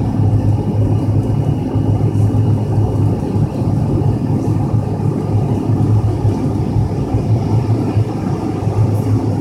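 Jet airliner cabin noise during takeoff, heard from a passenger seat: a steady, loud low rumble of the engines and airframe.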